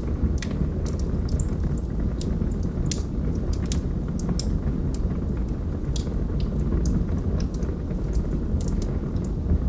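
Wood logs burning in a fireplace: a steady low rumble of flame with frequent sharp crackles and pops scattered irregularly throughout.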